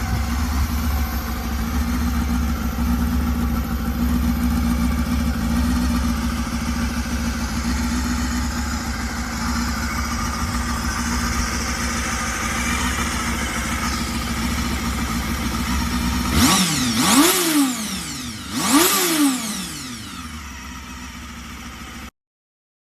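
Honda Hornet 250 inline four-cylinder motorcycle engine idling steadily through its exhaust, then revved twice in quick blips, each rising and falling in pitch, before settling back to idle.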